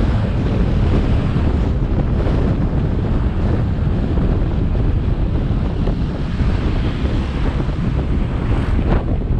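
Wind rushing over the camera microphone on a moving motorcycle, a steady low rumble with the motorbike's road and engine noise underneath.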